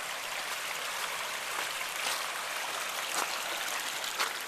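Steady rushing of a river running high after days of rain, with a few soft footsteps on the trail about once a second.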